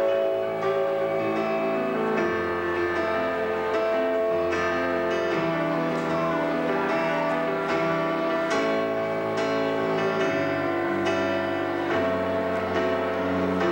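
Instrumental band music without vocals: sustained chords changing every couple of seconds over a steady bass line, with lighter plucked notes on top.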